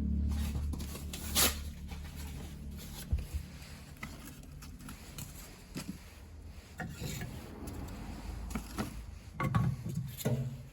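Firewood being handled at a wood stove: scattered knocks of pieces of wood set against each other, with some scraping and rubbing.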